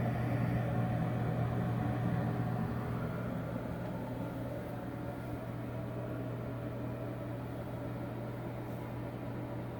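Older NuTone exhaust fan running steadily, its motor giving a low hum under the rush of air, with the dirty fan running fairly quietly.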